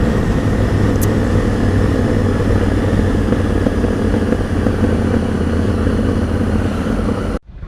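Motorcycle engine running steadily with a low hum, heard from on the bike. The sound cuts off abruptly near the end.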